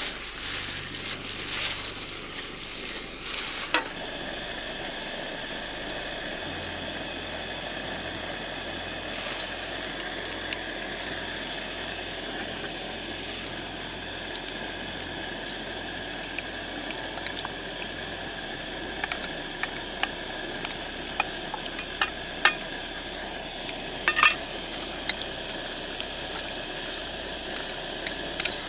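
Onions frying in oil in a pot on a portable gas camping stove, a steady hiss. A wooden spatula clicks and knocks against the pot as the onions are stirred, mostly in the last ten seconds.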